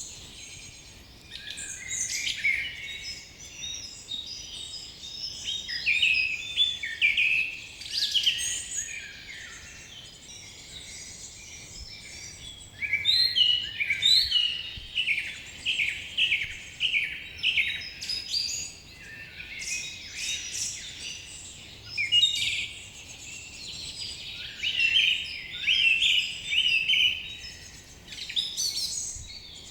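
Several wild birds singing and calling together, a mix of chirps and trills with quick runs of short repeated notes.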